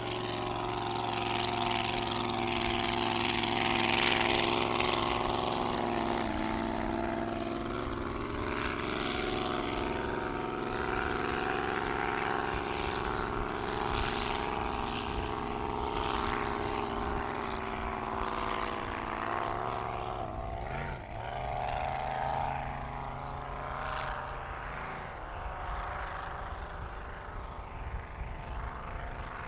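Grand Prix racing hydroplane engine running hard for the whole stretch, its pitch shifting as the throttle and distance change.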